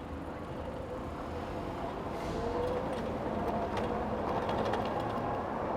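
Steady ride noise from a 60-volt e-bike at speed: a rush of wind and road noise with a faint motor whine, which rises briefly about two seconds in.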